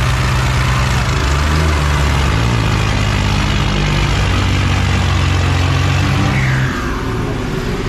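Heavy diesel farm-machinery engine running hard with a deep, steady hum; its pitch shifts about two seconds in and it drops back near the end.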